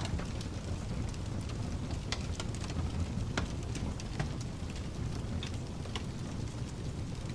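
Wood fire crackling in a fireplace: irregular sharp pops and snaps over a steady, low-heavy pink-noise hiss.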